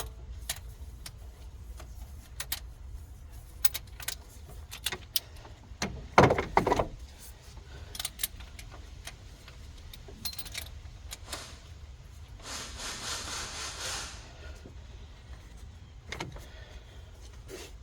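Hand tools and metal engine parts clinking and knocking while the camshafts come out of a Ford 3.0L EcoBoost V6. A cluster of louder knocks comes about six seconds in, and a rattle lasting about a second and a half comes near the end.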